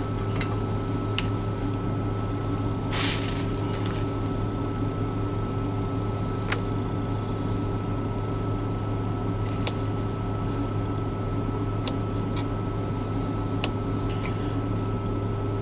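Steady low mechanical hum inside a parked truck's cab, such as the idling engine or its air conditioning. A handful of light clicks and taps are spread across it, and there is a brief rustle about three seconds in.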